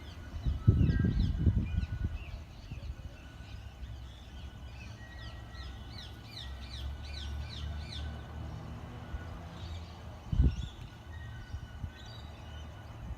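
Birds calling in a quick series of falling chirps, over a low outdoor rumble that swells loudly near the start, with a single thump about ten seconds in.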